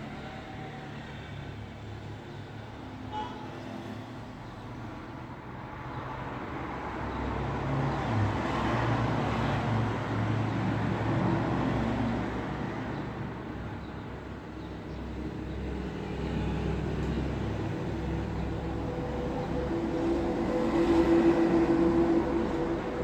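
Road traffic: a steady rush of vehicles passing, swelling as one goes by about a third of the way in and again, louder, near the end with a steady engine tone.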